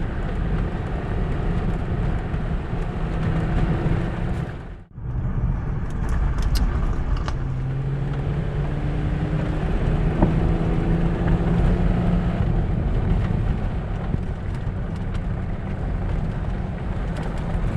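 Off-road vehicle driving, a steady engine and road rumble with the engine's hum changing pitch now and then; the sound cuts out briefly about five seconds in.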